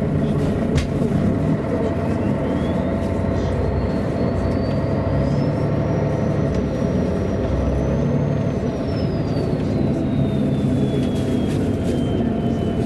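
MAN A23 articulated city bus under way: steady diesel engine and road noise, with a high whine that climbs in pitch for about six seconds and then slowly falls away.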